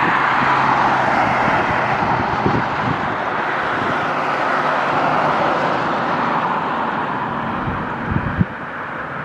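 Straight-piped exhaust of a 2006 Acura TL's V6, catless J-pipe and muffler-free 3-inch pipe, running loud and steady, easing slightly over several seconds. A couple of short sharp thumps come near the end.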